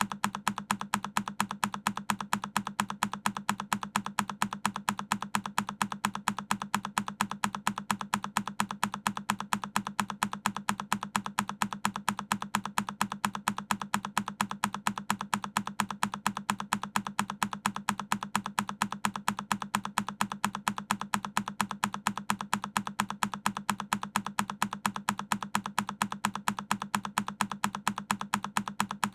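A single key on a Keychron K10 mechanical keyboard being pressed over and over, a short sharp click repeating at an even, rapid rate of several presses a second.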